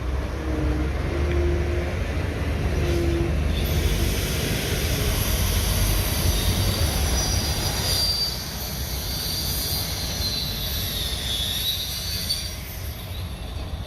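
Bulldozer's diesel engine running, with high-pitched metal squealing of its steel crawler tracks from about four seconds in until near the end.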